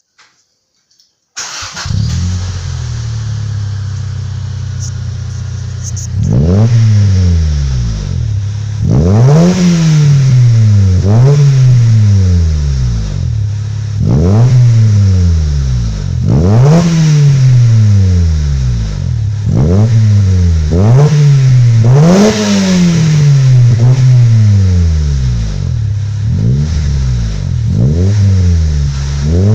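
Honda Civic's D16Y3 1.6-litre four-cylinder engine, breathing through a catless exhaust with a flame arrester, large resonator and straight-through muffler. The engine starts up about a second and a half in and idles steadily, then is blipped about a dozen times, each rev rising sharply and falling back to idle.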